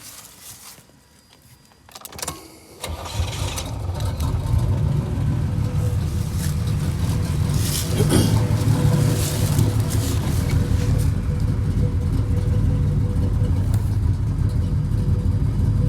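Cammed 305 small-block Chevy V8 started: it catches about three seconds in and then runs steadily at idle, with a brief rise in level around eight seconds. The engine is shaking and missing at idle, which the owner puts down to a spark plug wire burnt on the cylinder head.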